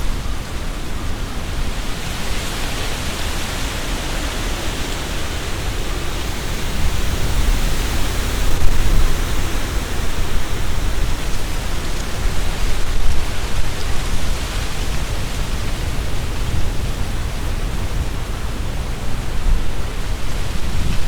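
Strong gusty wind rustling the leaves of trees, with a low rumble of wind buffeting the microphone. The gusts swell about seven to nine seconds in and again around thirteen seconds.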